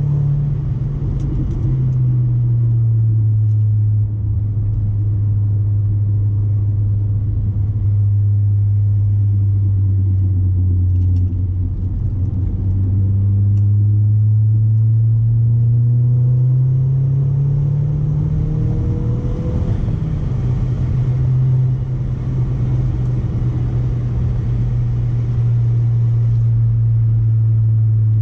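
Audi A4 1.8T turbocharged four-cylinder with a resonator-delete ECS catback exhaust and test pipe, driving with a low, steady exhaust drone. The engine pitch steps down a couple of seconds in, climbs slowly for several seconds, then drops again about two-thirds of the way through, as at gear changes.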